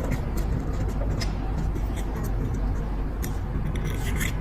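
Steady low hum with a few faint, sharp metal clicks, several of them spaced about a second apart, as a lighter's parts are handled while a new flint is put in.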